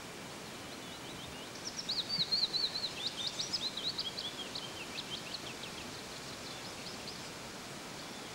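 A small songbird sings one long, rapid song of high chirps and trills. The song grows louder about two seconds in and fades away near the end, over a steady background hiss.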